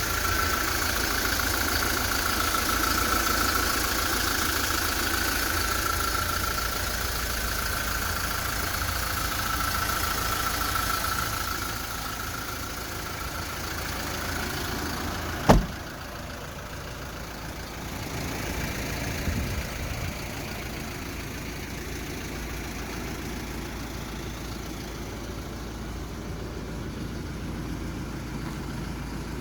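Kia Bongo III's 3.0-litre diesel engine running steadily. About halfway through there is a single sharp knock, after which the engine sound is a little quieter.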